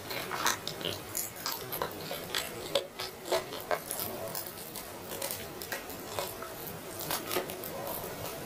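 Close-miked eating of grilled chicken: irregular wet clicks and crackles of chewing and tearing meat, several a second.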